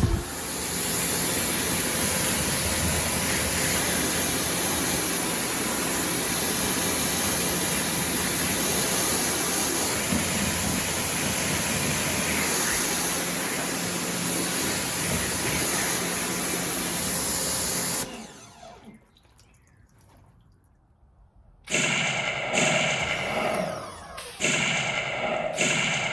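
Pressure washer spraying water onto a car for about 18 seconds, with its motor's steady hum under the hiss, then cutting off suddenly. After a pause, two short pitched sounds near the end.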